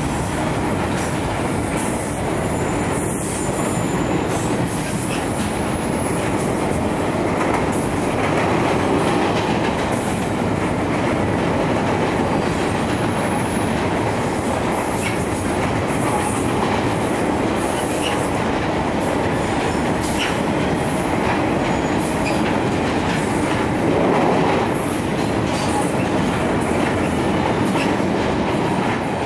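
Double-stack intermodal freight train rolling past at close range: a steady rumble and clatter of steel wheels on the rails, with the wheels clicking over rail joints as the container cars go by.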